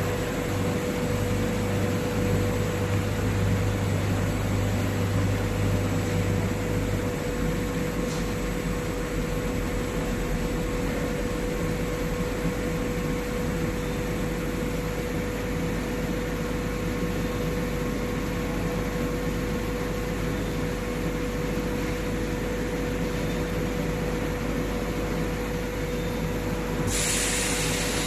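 Internal and external grinding machine running steadily: a constant machine noise with a steady whine, a low hum that drops away about a quarter of the way in, and a brief hiss near the end.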